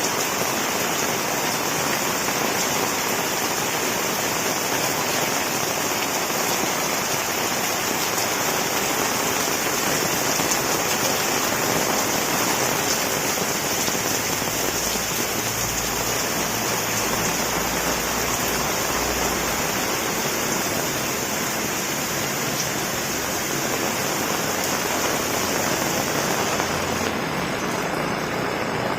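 Heavy rain falling steadily, a dense, even hiss, with a low rumble that comes and goes in the middle.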